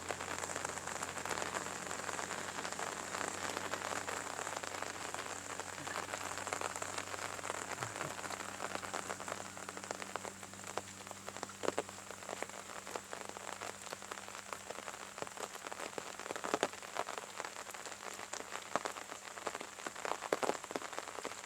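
Steady rain falling, with many separate drop ticks close by that grow more frequent about halfway through.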